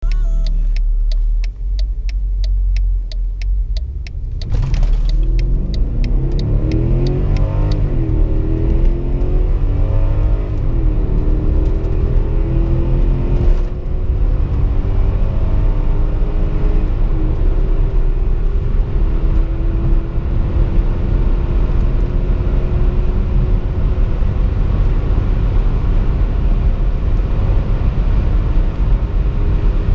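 Mercedes GL 450's 4.7-litre V8 pulling hard from a standstill under full throttle. The engine note climbs and drops back at each automatic upshift, several times in the first dozen seconds, then settles into a long steady pull at high speed with road and wind noise. Before the launch the engine idles low under a fast regular ticking.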